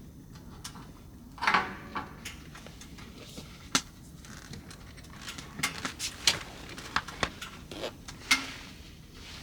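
Objects being handled at close range: a string of sharp clicks and knocks, with rustling about one and a half seconds in and again near the end.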